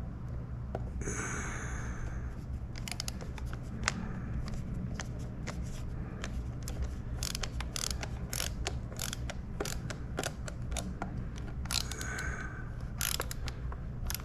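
A small screw being driven with a screwdriver into the plastic housing of a Logitech Extreme 3D Pro joystick until it is tight: a scrape, then a run of irregular small clicks. A steady low hum sits underneath.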